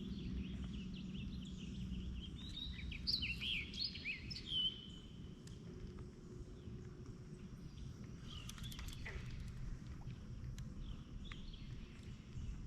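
Wild birds chirping: a quick run of short, sliding high calls a few seconds in, and a few more past the middle, over a low steady outdoor rumble.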